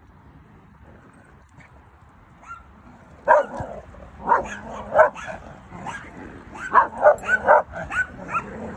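Dog barking in short, separate barks starting about three seconds in, then a quicker run of barks and higher yips near the end.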